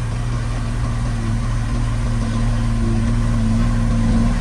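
Heavy diesel engine of earthmoving equipment running steadily, growing a little louder toward the end.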